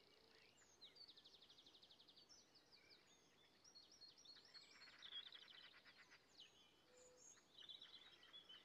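Faint birdsong: high chirps and quick rapid trills from small songbirds, over near silence.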